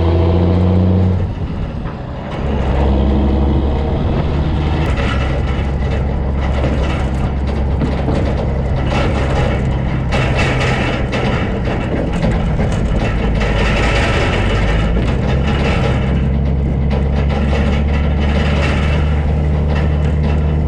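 Semi truck's engine and road noise while driving, heard from a GoPro mounted on the outside of the truck. The engine note dips briefly about a second in, then runs steady.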